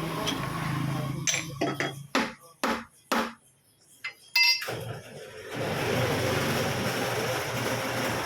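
A hammer strikes metal about seven times in quick, uneven succession, followed by a single ringing metallic clink, during work on a front-axle suspension bushing. About halfway through, a steady rushing noise sets in and continues.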